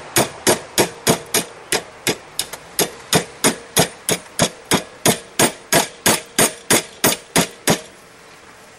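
Steady hammer blows on a hot steel rod clamped in a vise, about three a second, forcing it into a tight bend. The blows stop near the end.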